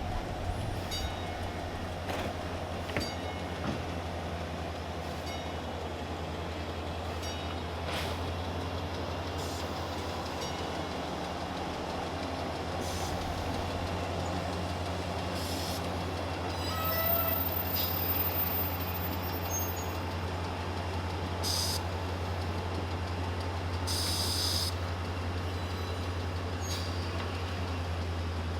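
East Troy Electric Railway dinner train running on the track: a steady low rumble with scattered clicks, and a short high tone a little past halfway.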